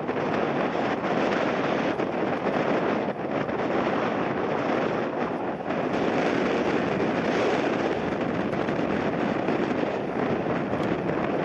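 Jet airliner engine noise on landing, a steady rush mixed with strong gusting wind buffeting the microphone; it grows louder right at the start.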